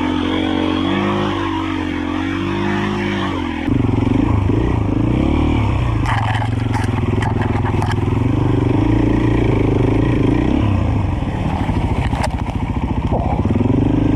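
Dirt bike engine being ridden, its revs rising and falling, getting louder about four seconds in. A few sharp clicks come about six seconds in and again near the end.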